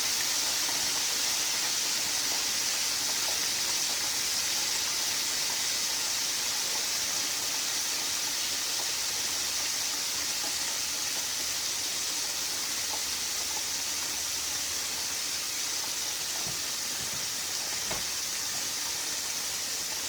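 Floured fish deep-frying in hot grease: a steady sizzling hiss that slowly eases over the stretch.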